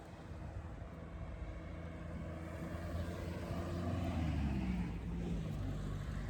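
A road vehicle driving past, its engine growing louder to a peak about four seconds in, the pitch dropping as it passes, then fading.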